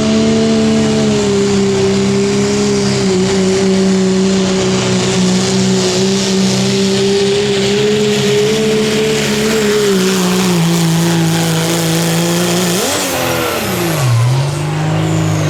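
Turbocharged diesel pickup truck engine held at high revs under heavy load while pulling the sled, its pitch sagging slightly as it bogs. Near the end it revs up sharply and drops away, then swells once more.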